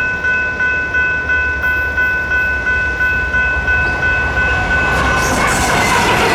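A grade-crossing electronic bell (General Signals Type 3) dinging about three times a second. About five seconds in, the loud rushing of an approaching commuter train led by an EMD F59PHI locomotive swells in and drowns it out.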